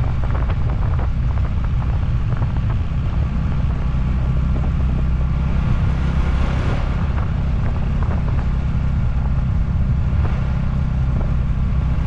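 Honda Super Cub 110 motorcycle being ridden at a steady speed: its small single-cylinder four-stroke engine runs evenly under a loud, constant low rumble.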